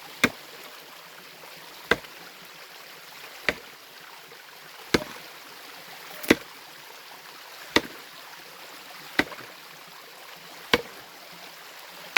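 Pickaxe striking stream bedrock in a steady rhythm, a sharp blow about every one and a half seconds, eight or so in all, over the steady rush of a mountain stream.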